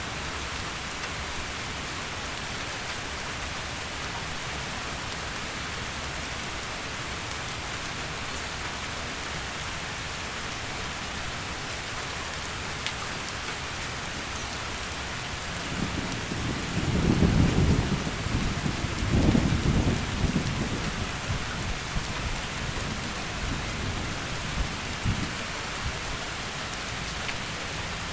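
Heavy rain falling steadily, with a roll of thunder rumbling in about halfway through, swelling twice and fading away over several seconds.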